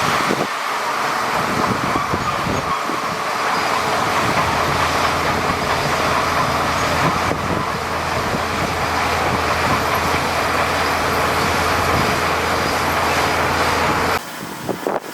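Heavy diesel earthmoving machinery running steadily, with a low engine drone under a dense mechanical clatter. The sound drops off abruptly about a second before the end.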